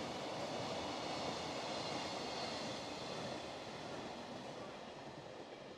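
Freight train of tank wagons and container wagons rolling along the rails, a steady rumble of wheels that fades away from about three seconds in as the last wagons pass and recede.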